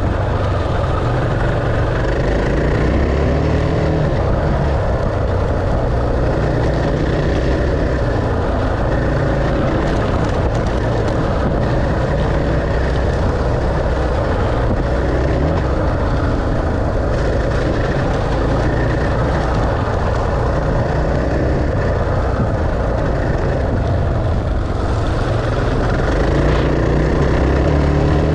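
Off-road motorcycle engine running continuously, its pitch rising and falling with the throttle over a heavy low rumble.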